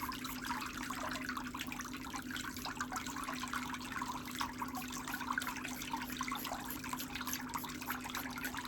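Steady trickle of water over a low, even electric hum.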